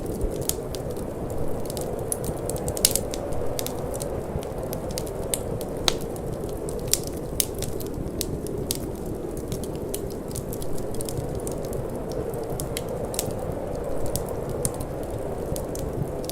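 Wood fire crackling, with irregular sharp pops several times a second, over a steady low rushing of wind.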